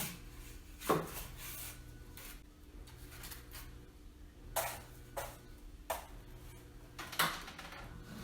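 Several short knocks and clatters, about five spread across a few seconds, over a faint steady low hum.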